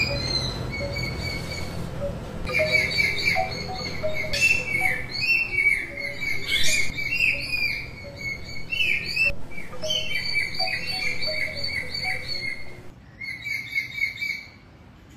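Birds chirping in many short repeated calls over soft background music. The chirping thins out and grows quieter near the end.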